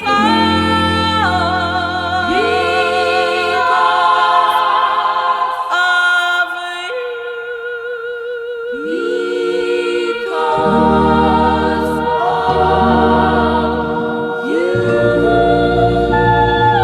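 Girl-group soul-pop record: several women's voices singing long held notes with vibrato in close harmony, the chord changing every second or two.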